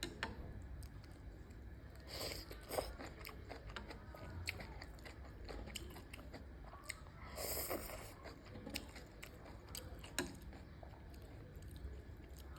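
Close-miked mouth sounds of enoki mushrooms being bitten and chewed: many small wet clicks and crunches, with two louder bites about two seconds in and about seven seconds in.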